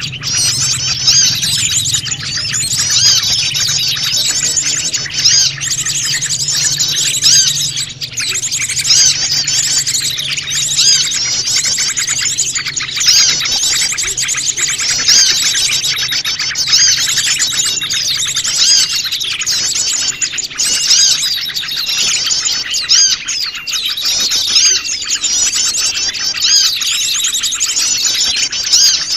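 A dense, noisy chorus of many small wild birds chirping and trilling at once, high-pitched and unbroken: a mixed small-bird lure call.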